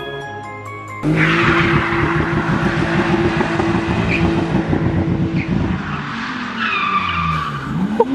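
Car engine held at high, steady revs, then its pitch falls and climbs again near the end, with a brief squeal shortly before. Background music plays for the first second.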